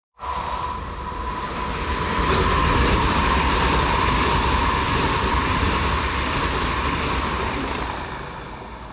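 A train running past, starting abruptly, growing louder over the first few seconds and fading near the end, with a steady high whine over the rumble.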